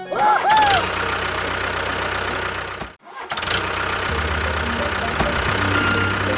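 A small vehicle engine running steadily with a low hum. It cuts out abruptly about three seconds in and starts again straight away, and a few short rising-and-falling tones sound near the start.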